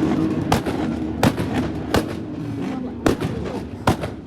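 A run of loud, sharp bangs, about five in four seconds at uneven spacing, over a car engine settling down with a slowly falling pitch.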